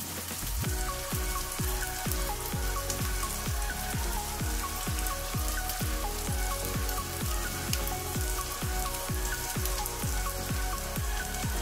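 Chicken patties sizzling in oil in a frying pan, a fine steady crackle, under background music with a steady beat of about two thuds a second.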